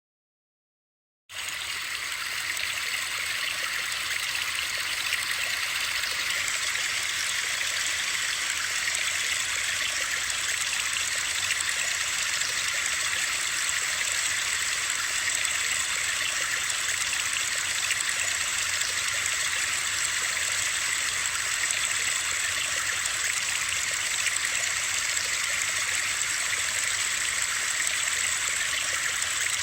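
Steady hiss of rushing water played as a white-noise sleep sound, mostly high-pitched and unchanging. It cuts in suddenly about a second in, after dead silence.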